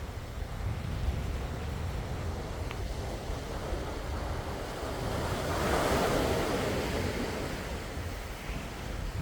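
Sea waves on the shore: one wave swells and breaks about six seconds in, then washes away, over a steady low rumble of surf.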